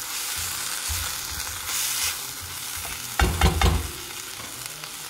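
Chicken, bell pepper and green onions sizzling in a hot wok while a spatula stirs and scrapes the pan. A short clatter of knocks a little past the middle is the loudest moment.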